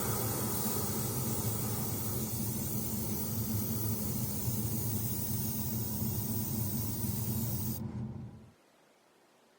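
Paint spraying: a steady spray hiss over a low motor hum. The hiss cuts off about eight seconds in and the hum stops a moment later.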